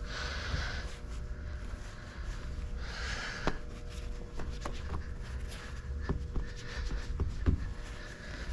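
Wet window-tint work on a car door window: two short hissing swishes, one at the start and one about three seconds in, then a scatter of sharp clicks and taps, over a steady low hum.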